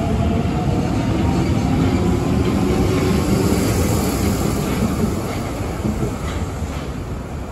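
Osaka Metro 30000A series train with a Hitachi IGBT-VVVF inverter pulling out of the station: the motor whine rises in pitch over the rolling wheel noise, with a few wheel clicks over rail joints. The sound fades from about five seconds in as the train draws away.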